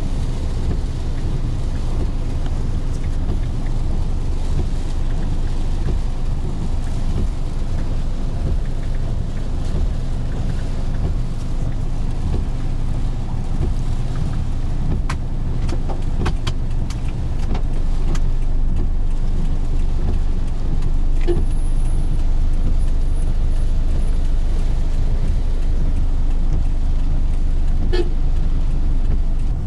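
A car on the move: a steady, loud low rumble of engine and road noise, with a few faint clicks.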